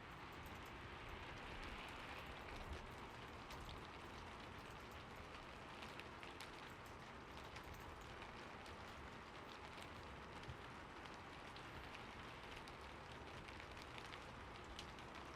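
Steady rain: an even hiss with a dense patter of individual drops ticking through it.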